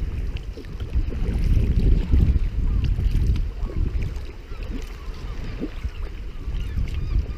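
Wind buffeting the microphone in an uneven low rumble, over water lapping and splashing around a sea kayak.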